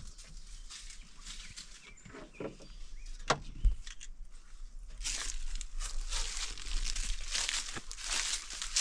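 Irregular rustling and crunching with scattered clicks, one sharp click near the middle, turning louder and denser about five seconds in.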